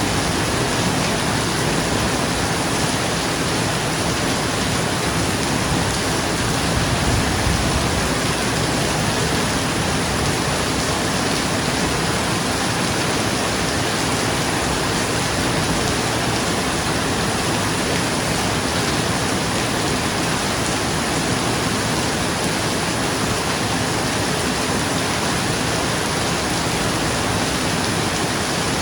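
Steady rain on a roof, an even hiss of drops, with a brief low rumble of thunder about seven seconds in.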